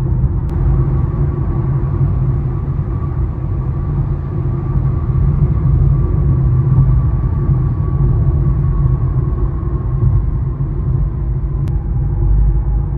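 Inside the cabin of a 2019 Infiniti Q50 3.0T under way: its twin-turbo V6 and the road make a steady low rumble, with a faint high whine over it that drifts slowly lower and drops a step near the end.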